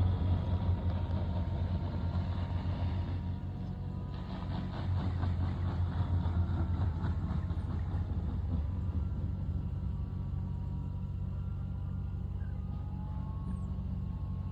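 Tractor engine running with a steady low hum, louder for the first few seconds and again a few seconds later, then holding even.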